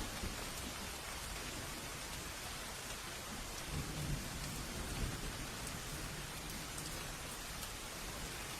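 Steady rain falling, with a low rumble of thunder swelling about halfway through and fading a second or two later.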